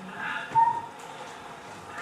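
Bellbird call: a few short high notes, then one clear whistled note about half a second in.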